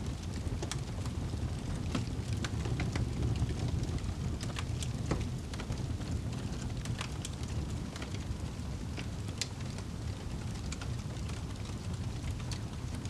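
Wood fire crackling and popping: irregular sharp snaps scattered over a steady low rumble.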